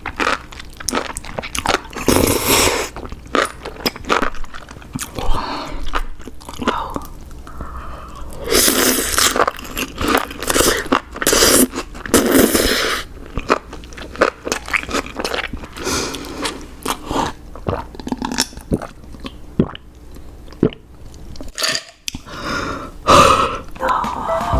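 A person chewing spicy enoki mushrooms close to the microphone: wet, crunchy bites and chewing with many small clicks. The chewing comes in louder bursts, about two seconds in and again around the middle.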